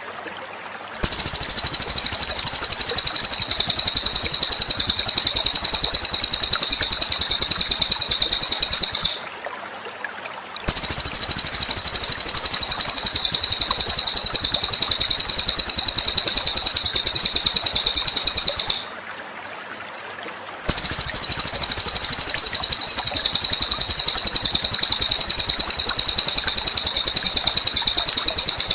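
A high, very fast, even trill from a masteran (song-tutoring) recording, sung in three long bouts of about eight seconds each with short pauses between them.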